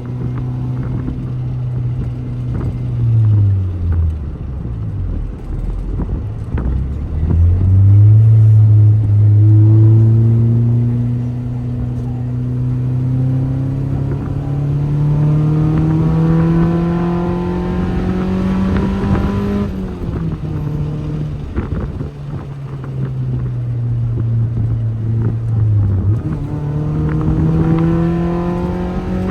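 Honda Civic EK's swapped K20 four-cylinder engine under way, its note rising and falling with the revs: it drops a few seconds in, climbs steadily for about twelve seconds, falls sharply near two-thirds of the way through as for a gear change, eases down, then rises again near the end.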